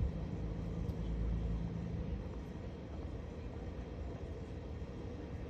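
Single-engine piston light airplane's engine running, a steady low drone that is a little stronger in the first two seconds.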